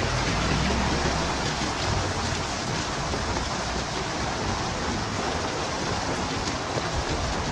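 Heavy rain falling steadily as an even hiss, with a low rumble of wind in the first two seconds or so that then eases off.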